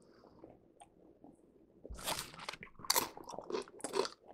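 Close-up crunching and chewing of crackers: quiet for about the first two seconds, then a quick run of crisp crunches.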